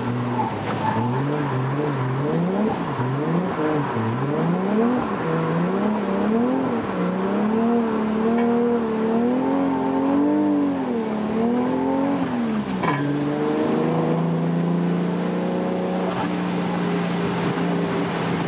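Toyota JZX100's straight-six engine revving up and down over and over under quick throttle changes while drifting, then holding a steadier, higher note for the last few seconds.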